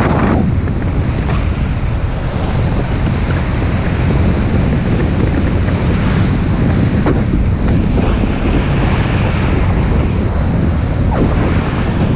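Wind buffeting the microphone of a motorbike under way, a loud steady rush of noise that drowns out the engine.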